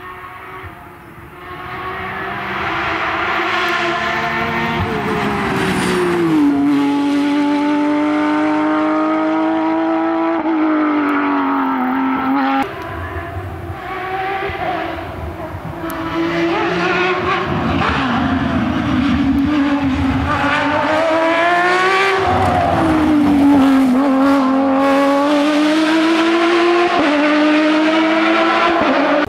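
Porsche 911 flat-six rally engine at full load, its pitch climbing and dropping again and again through the gears. The sound changes abruptly about a third of the way in, where a second pass begins.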